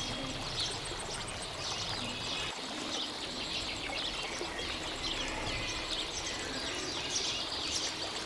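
Caged bird chirping: many short, quick high chirps in a busy run, over a steady hiss.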